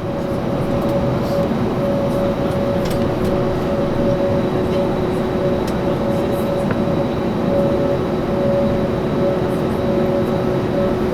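Jet airliner engines running steadily: a rushing rumble with two steady held tones over it.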